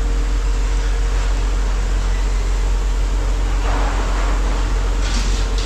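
Steady low machine rumble, like an engine or hydraulic pump running, with a brief rustle about four seconds in and a few sharp metal clanks near the end as scrap is handled.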